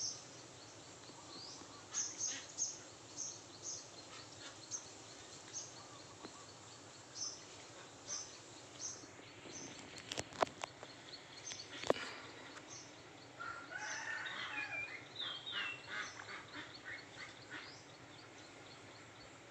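Birds calling: short high chirps, a couple a second, with a busier run of warbling calls about fourteen seconds in. Two sharp clicks stand out around ten and twelve seconds.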